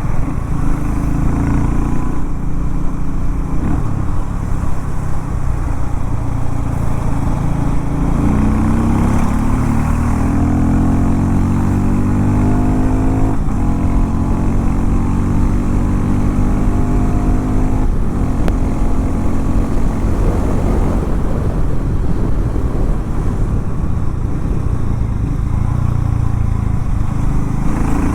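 Harley-Davidson X440 T's single-cylinder engine running under way. Its note climbs from about a third of the way in, drops back sharply twice, around halfway and about two-thirds through, as on upshifts, then holds fairly steady.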